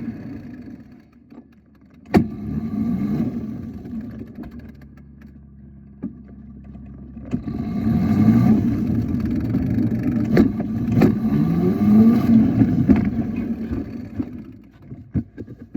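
Vehicle engine running, quieter at first, then accelerating several times with its pitch rising in sweeps. A sharp click about two seconds in.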